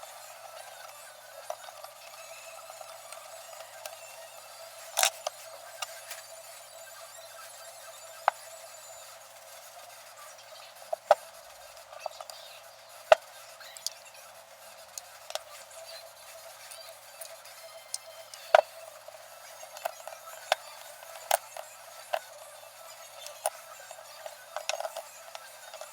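Irregular sharp clicks, taps and clinks of small metal parts and tools being handled, scattered a few seconds apart over a steady faint background.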